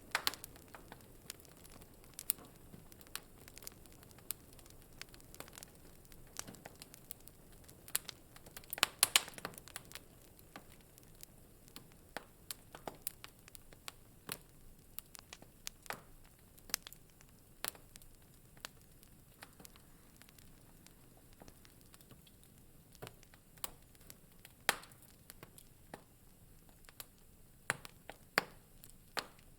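Wood fire in a fireplace crackling, with irregular sharp pops and snaps over a faint hiss; a quick run of loud pops comes about nine seconds in, and a few single loud snaps come near the end.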